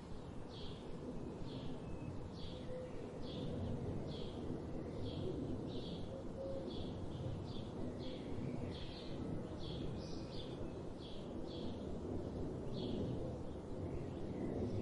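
A bird chirping over and over, short chirps at roughly two a second, over a steady low rumble of background noise.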